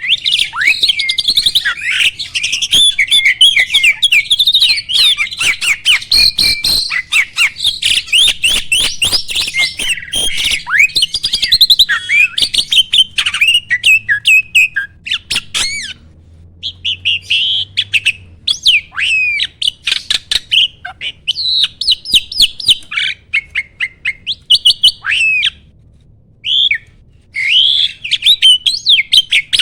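A jalak (starling) singing a long, fast medley of chattering notes, clicks and whistled glides, with a short pause about halfway through and a sparser stretch a few seconds before the end.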